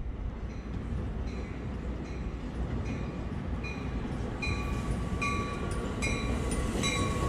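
Amtrak California passenger train pulling into the station: a low rumble that slowly grows louder as it approaches. A bell rings over it about once every three-quarters of a second.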